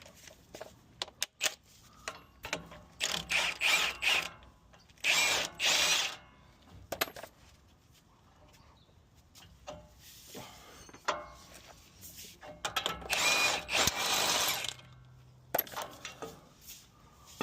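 A socket wrench with a 24 mm socket working a nut on the truck's front steering, in several bursts of ratcheting about a second long, with clinks of metal tools between them.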